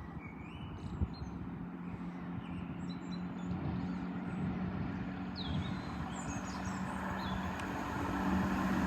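Great Western Railway Class 166 Turbo diesel multiple unit approaching, its diesel engines giving a steady low hum that grows steadily louder. Birds chirp now and then over it.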